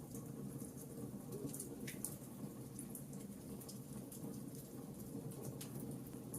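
Fireplace crackling: frequent small pops and snaps over a steady low murmur of burning, with a louder pop about two seconds in and another near the end.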